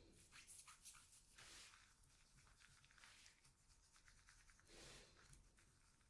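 Near silence with faint rustling and a few light clicks: quiet hand handling of a chocolate bar's paper and foil packaging.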